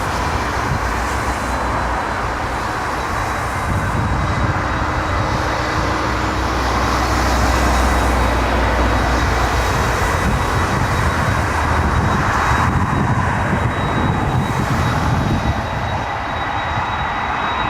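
Jet airliner engines running, a deep rumble that builds about four seconds in and stays strong, with a steady high whine over a loud rush.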